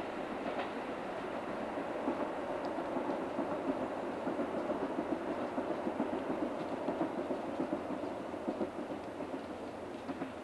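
A train running past on the rails, its wheels clattering over the rail joints in a quick, regular beat that fades near the end.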